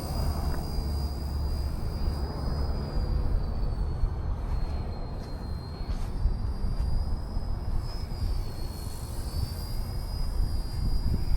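RC UH-1 Huey model helicopter running: a high whine that wavers slightly in pitch a few times over a steady low rumble.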